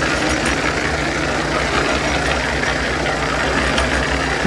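Engine of road-construction machinery running steadily at idle, with a low, even rumble.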